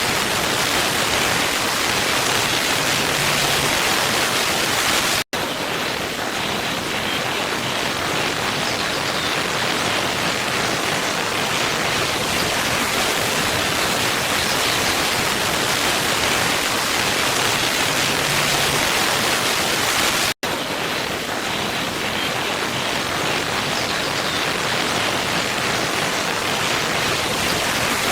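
Waterfall: a steady rush of falling water, broken by two momentary dropouts, about five seconds in and again about fifteen seconds later.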